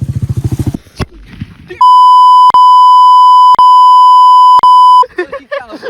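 Loud steady electronic censor bleep, one high tone held for about three seconds, with three short clicks where it is spliced; before it, a pit bike's small single-cylinder engine runs for under a second and cuts off.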